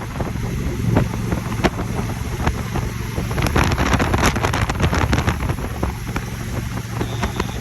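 Wind buffeting the microphone of a motorcycle at highway speed, with the motorcycle's engine running steadily underneath. The buffeting crackles hardest about halfway through.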